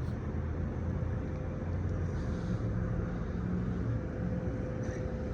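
Steady low rumble of a motor vehicle idling, with a faint steady hum above it.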